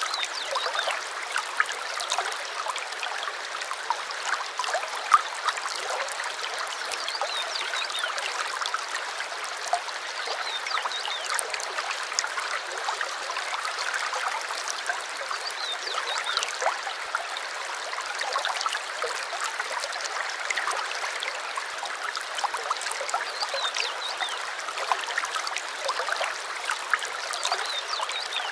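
A small stream trickling and gurgling steadily, with brief high bird chirps scattered through it.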